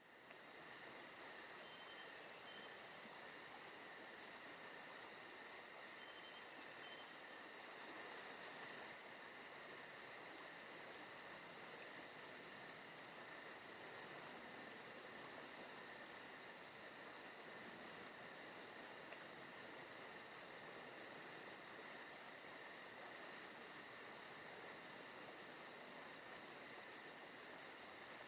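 Faint, steady ambience of crickets and other insects trilling together: constant high-pitched chirring over a soft hiss, with no break.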